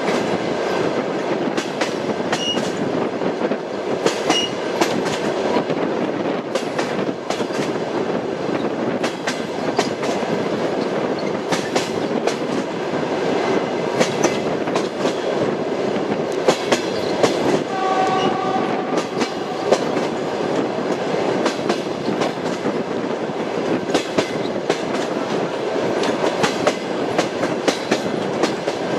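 Passenger train running along the line: a steady rumble with the clickety-clack of the wheels striking rail joints, repeating throughout. About two-thirds of the way in, a short steady tone of a few notes sounds for a couple of seconds.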